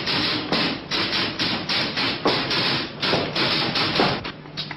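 Typewriter being typed on: a fast, irregular run of keystrokes, about three or four a second, thinning to lighter taps near the end.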